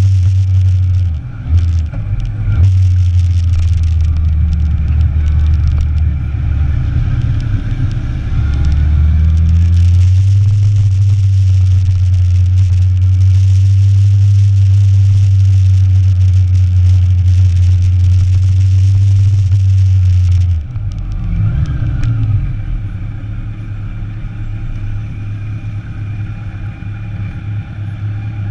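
Sport motorcycle engine heard on board while riding. The revs climb a few seconds in, then it runs steady under a loud rush of noise until the sound drops off suddenly about twenty seconds in as the throttle closes, running quieter after that.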